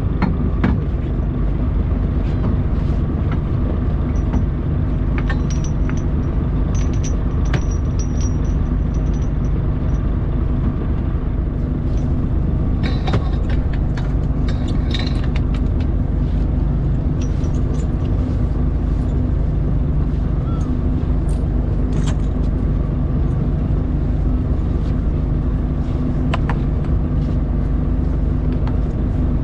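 A fishing boat's engine running with a steady drone, with scattered clicks and knocks on top.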